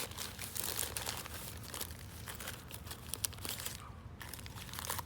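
Plastic-wrapped bandages and dressings crinkling and rustling as they are rummaged through, with irregular crackles.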